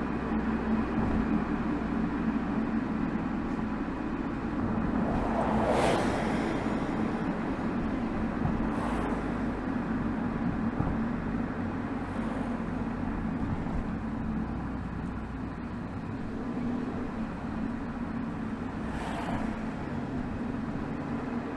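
Exhaust of a BMW 320xd's 2.0-litre four-cylinder turbodiesel (B47D20) on a steady cruise, heard from beside the tailpipe over road and tyre noise. Brief whooshes pass several times, the loudest about six seconds in.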